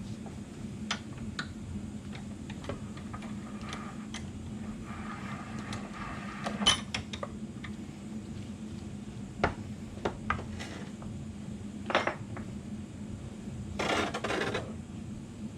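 Light metal clinks and taps as universal-joint bearing cups and hand tools are handled during a driveshaft U-joint install, with a sharp clink about halfway through and a short scrape near the end, over a steady low hum.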